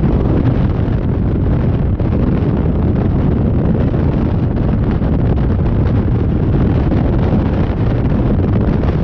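Jet boat underway, heard as a loud, steady rush and rumble of wind buffeting the microphone, with no distinct engine note standing out.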